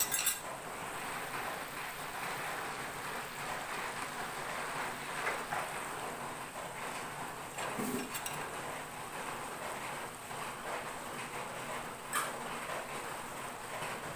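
Bamboo shoots and mushrooms sizzling steadily as they fry in an aluminium wok, with a few sharp clicks at the start, about eight seconds in and about twelve seconds in.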